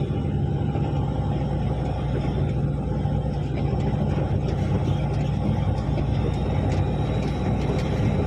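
Articulated dump truck's diesel engine running at a steady pitch, with a few faint ticks and rattles over it.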